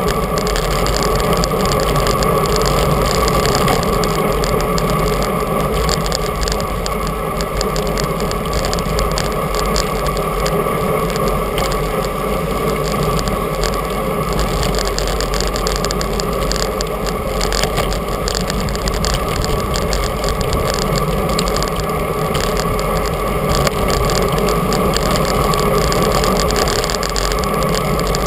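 Steady wind rush and tyre noise from riding a bicycle, with wind buffeting the action camera's microphone.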